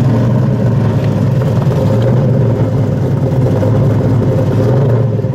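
Muscle car's V8 engine running steadily at a low, even pitch, with no revving.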